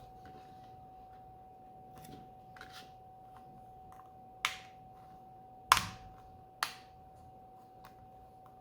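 A few sharp clicks, the loudest about halfway through, typical of a plastic Blu-ray disc case being handled, over a steady faint high-pitched hum.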